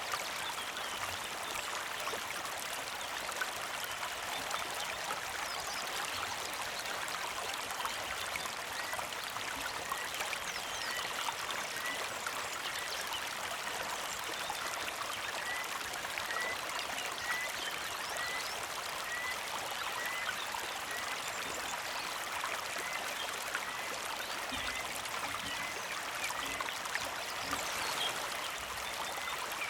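Shallow creek flowing and trickling steadily. A bird repeats a short rising chirp about once a second through the middle.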